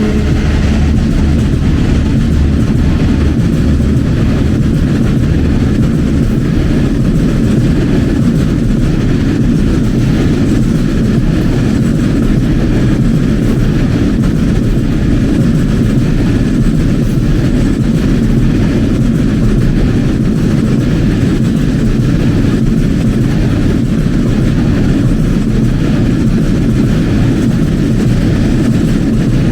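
A train rolling past: a loud, steady, low rumble of railcars on the track. Faint engine hum fades out in the first few seconds.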